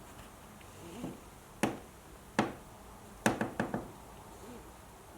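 A handful of sharp knocks: a single one, another just under a second later, then a quick run of four or five close together.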